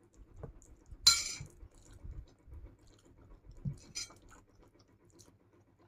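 Eating noises: soft chewing and a sharp clink of a utensil against a dish about a second in, with a smaller clink near four seconds. A faint steady electric-fan hum runs underneath.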